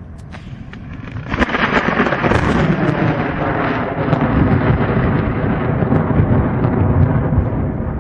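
Thunder over rain: a low rumble, then a sudden loud crack about a second and a half in, and a long rolling rumble after it.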